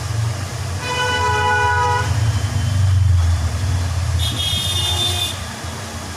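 A horn sounds for about a second over a steady low rumble, and a second, higher-pitched tone follows about four seconds in.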